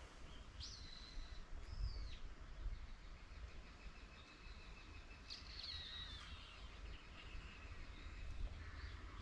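Faint bird calls: two short high whistled calls about a second in, and a falling, several-toned call about five and a half seconds in, over a low background rumble.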